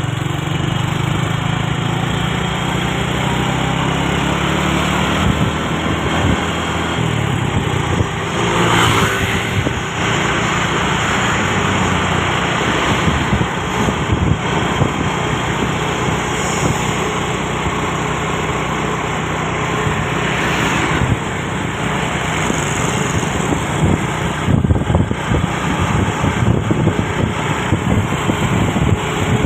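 Isuzu Giga diesel truck engine running steadily under way, with road noise and a couple of brief rushing swells about nine and twenty seconds in.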